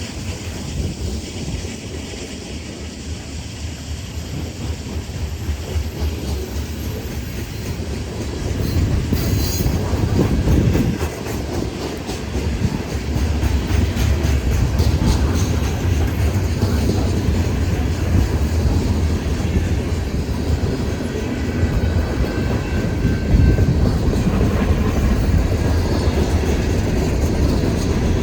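Freight train cars rolling past at a crossing, a low rumble with wheels clacking over the rail joints, getting louder about eight seconds in.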